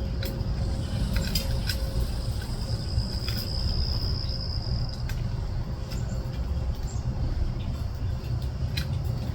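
Outdoor ambience: a steady low rumble with scattered short, high bird chirps, and a thin high whine held for about the first five seconds.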